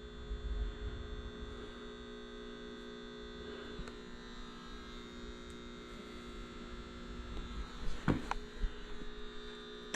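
Power inverter running off a 12-volt battery, giving a steady electrical hum with a faint high tone above it. A short knock about eight seconds in.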